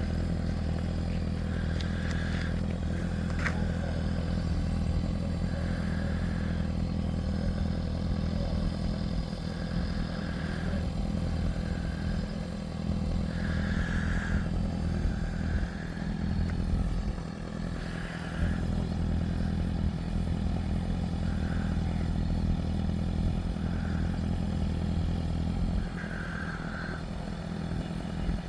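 An engine running steadily at a constant speed, a low hum whose pitch does not change, easing off briefly twice. Short faint mid-pitched sounds recur every second or two above it.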